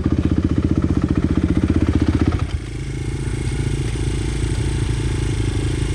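Dirt bike engine idling with an even, lumpy beat; about two and a half seconds in, the note turns smoother and a little quieter as it runs on.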